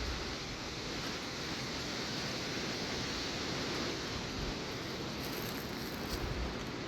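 Steady wind rushing through trees, with some wind buffeting the microphone.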